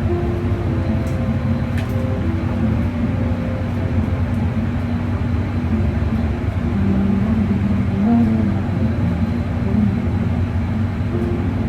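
Steady low machine drone, the running equipment of a food truck's kitchen, with a faint click about two seconds in.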